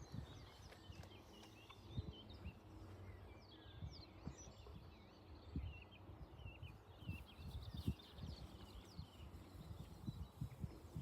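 Small birds chirping and twittering faintly, many short calls overlapping, over a low rumble with occasional soft thumps.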